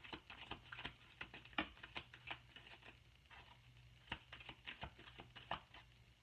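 A deck of tarot cards being shuffled by hand: quick, soft, irregular flicks and taps of the cards, several a second, with a short lull about three seconds in, over a faint steady low hum.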